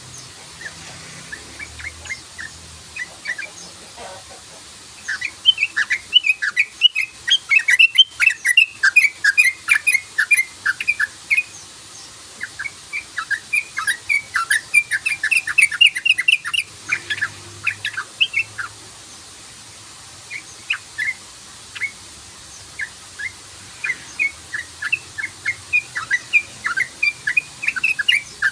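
Yellow-vented bulbul (trucukan) calling a long rapid 'cruk-cruk' chatter of short sharp notes, several a second, in two dense runs and then more scattered notes.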